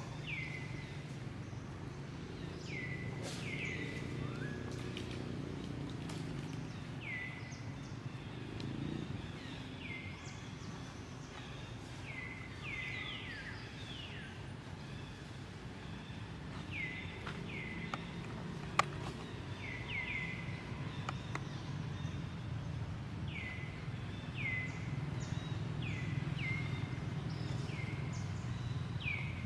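Animal calls: short high chirps, each falling in pitch, often in quick pairs, repeating every second or two over a steady low rumble. A single sharp click about two-thirds of the way through is the loudest moment.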